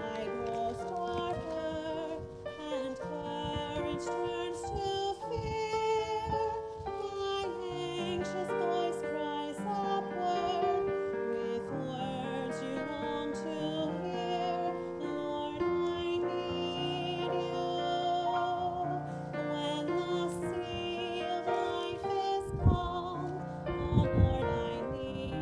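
A woman singing a slow solo song with vibrato over instrumental accompaniment, with wind buffeting the microphone in low rumbles that grow strongest near the end.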